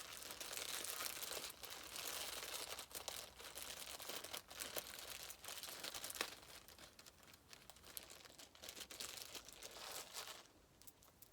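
Plastic packaging being crinkled and rustled by hand, with many small clicks and crackles, as small items are handled and unwrapped; it dies down near the end.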